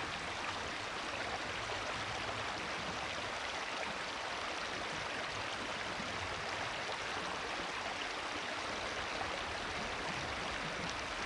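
Mountain stream water running over rocks: a steady, even rush.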